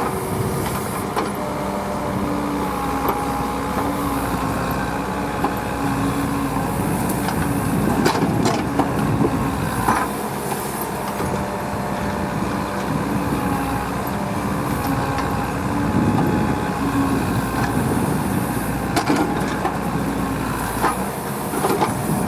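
Diesel engine of heavy farm machinery running steadily, with a few knocks and clanks.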